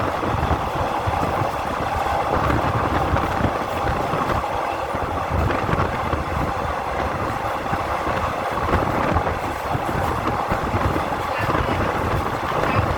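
Train running on the rails: a steady, loud rumble and rail noise with no change in pitch.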